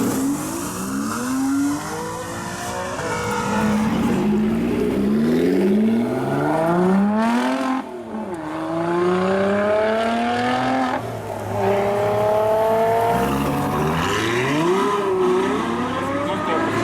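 Performance car engines accelerating hard away from the meet, revving up in a series of rising sweeps, each cut short by a gear change or lift-off and then climbing again.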